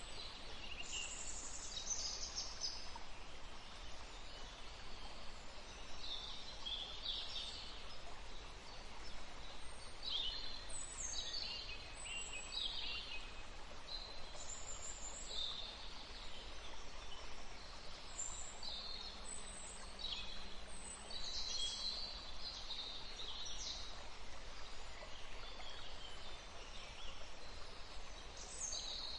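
Forest stream running steadily while small songbirds sing, with short high phrases that mostly fall in pitch, coming every second or two.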